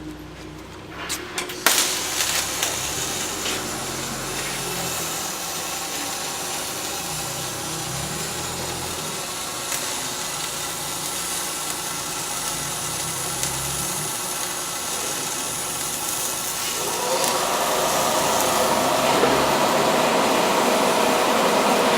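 MIG welding arc from a Power Wave S350 shielded with 75% argon, 25% CO2. A few short sputtering strikes start the arc, which then runs steadily crackling and grows louder about seventeen seconds in.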